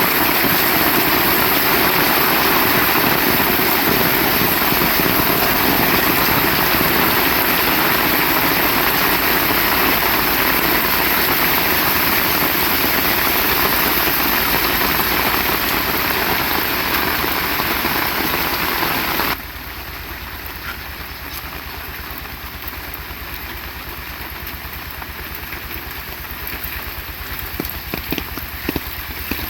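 Heavy rain falling as a dense, steady hiss. About two-thirds of the way through it drops suddenly to a much quieter, lighter rain, with a few separate drops splashing near the end.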